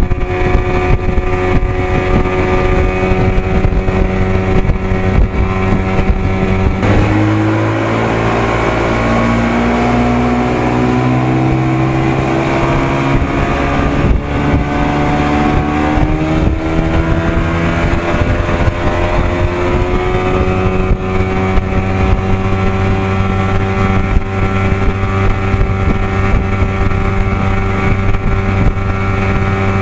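Evinrude 55 hp two-stroke outboard running at a steady cruise. About seven seconds in it is throttled back, then its pitch climbs gradually over the next ten seconds or so and it settles back at cruise. Wind rushes on the microphone.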